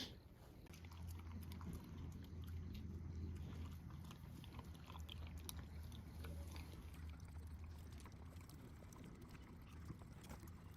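Border collie eating from a bowl: faint chewing and small clicks of mouth and food, over a steady low hum.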